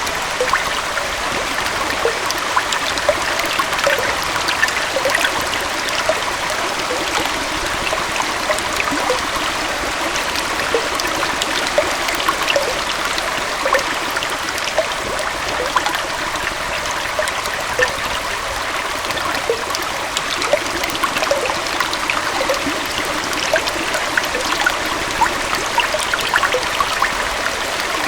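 Small forest waterfall or stream running steadily, water splashing and babbling over rocks with many small droplet splashes.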